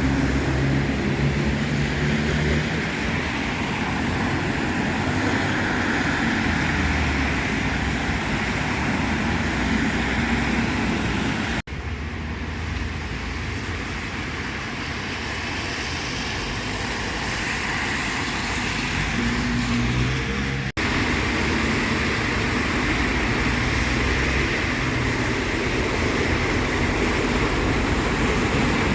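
City street traffic on wet asphalt after rain: cars and other vehicles passing with a steady tyre hiss and engine rumble. The sound cuts out abruptly twice for a split second.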